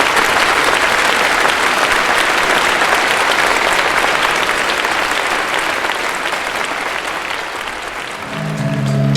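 Audience applauding steadily, the clapping dying down over the last couple of seconds as music starts up with low sustained notes near the end.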